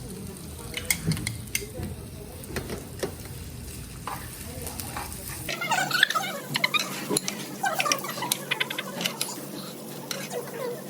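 Utensils stirring and clicking against dishes over a light sizzle, with faint voices in the second half.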